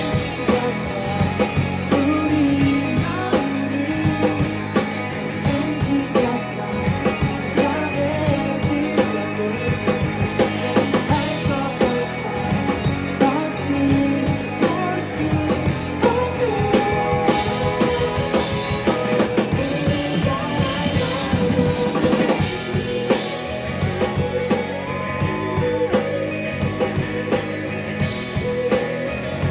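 Live rock band music, with a steady drum beat, guitar and singing.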